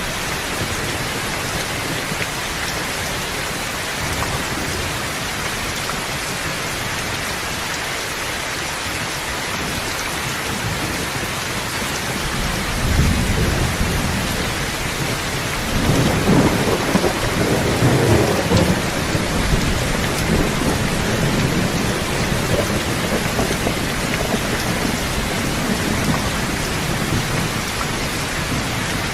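Steady heavy rain with a roll of thunder: a low rumble rises about halfway through and swells louder for a few seconds before fading back under the rain.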